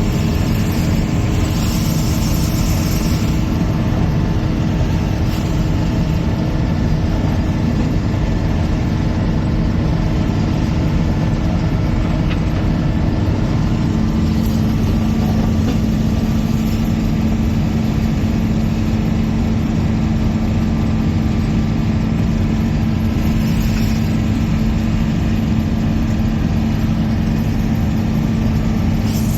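Combine harvester working a corn field, its engine at high revs and the machine running with a steady, unbroken drone and hum.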